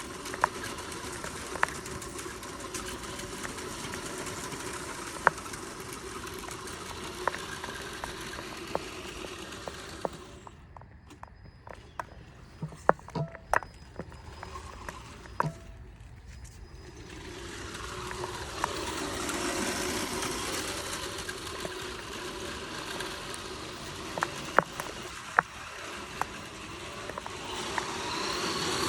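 Tamiya RC Scania R620 tractor truck driving, its electric motor and gearbox running with scattered sharp clicks. The running sound drops away for several seconds about a third of the way in, then comes back and grows louder.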